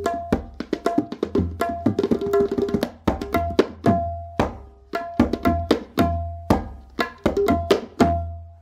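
Background music of tabla drumming: a quick run of sharp ringing strokes over deep booming bass strokes, the last one dying away at the end.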